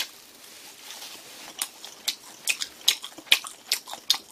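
A person chewing a mouthful of food close to the microphone, with wet mouth clicks about two to three a second that start about a second and a half in.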